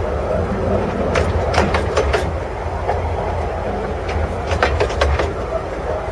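15-inch gauge miniature railway carriage running along the track: a steady low rumble with clusters of clicks as the wheels pass over rail joints, about a second in and again about four and a half seconds in.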